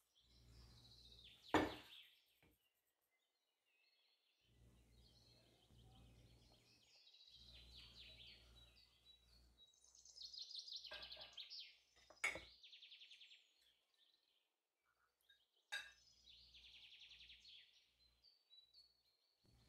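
Faint birds chirping and trilling. A few sharp clicks stand out, the loudest about a second and a half in.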